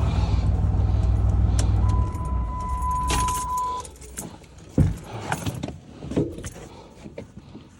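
Truck engine idling, then switched off about two seconds in. A steady electronic warning chime sounds for about two seconds as it stops, followed by keys jangling and a few light clicks and knocks.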